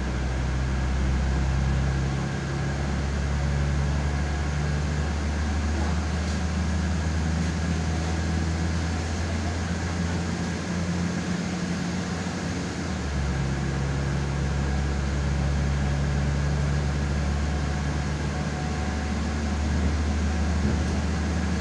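Diesel multiple unit running between stations: a steady low engine drone over rail noise, the engine's hum shifting in pitch about two seconds in and again around thirteen seconds.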